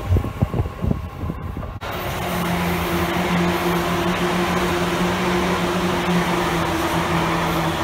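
Seibu N2000-series electric commuter trains passing: wheel rumble and uneven knocks for about the first two seconds, then a sudden change to steady running noise with a low hum of two held tones.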